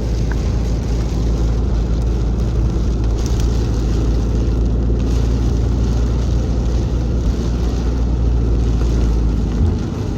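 Car driving through the city, heard from inside the cabin: a steady low rumble of engine and road noise with an even hiss, easing slightly near the end.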